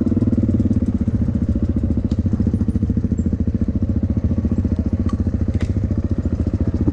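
Dirt bike engine idling steadily with an even, rapid pulse.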